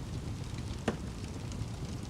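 Wood fire burning in a fireplace: a steady low rumble of flames with one sharp crackling pop a little before the middle.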